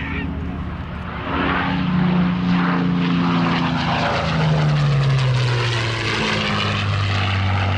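A de Havilland Mosquito's twin Rolls-Royce Merlin V12 piston engines droning on a pass overhead. The drone swells about a second in, and its pitch falls steadily as the aircraft goes by.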